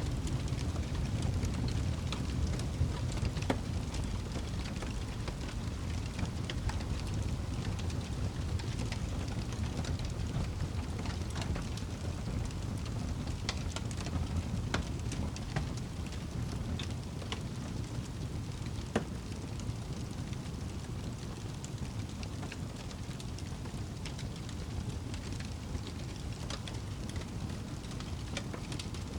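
Campfire crackling, with irregular sharp pops over a steady low rumble of burning.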